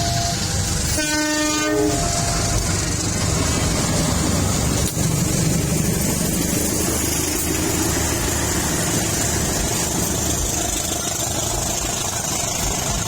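Train horn blowing once, briefly, about a second in, followed by the steady rumble of a train running through the station.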